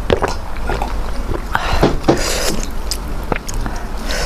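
Close-miked eating sounds: chewing with irregular wet smacks and clicks of the mouth, and a few brief louder bursts.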